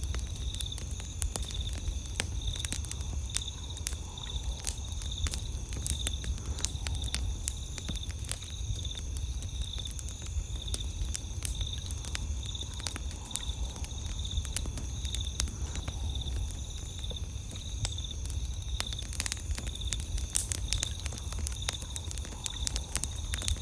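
Wood campfire crackling with frequent sharp pops and snaps over a steady low rumble, while night insects chirp in a steady, high, pulsing chorus.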